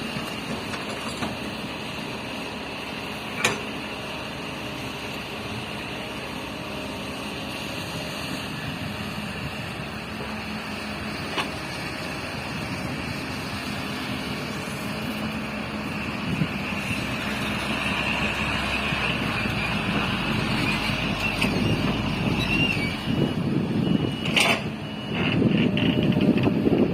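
Heavy construction machinery running: a steady diesel engine sound with a few sharp knocks, growing louder and busier over the last third.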